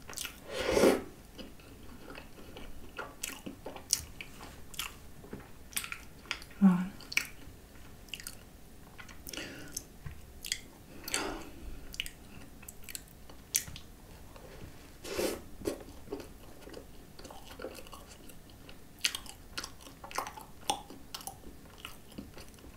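A person chewing a mouthful of croissant piled with whipped cream, with many small mouth clicks and smacks; a louder bite about a second in.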